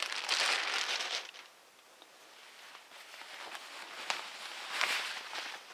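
Rustling of a packaging bag and the shirt's fabric as the combat shirt is handled and unfolded, loudest in the first second, then a few fainter rustles near the end.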